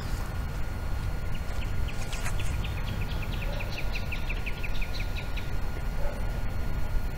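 A bird calling a rapid series of short chirps, about six a second, for about four seconds, over a steady low rumble.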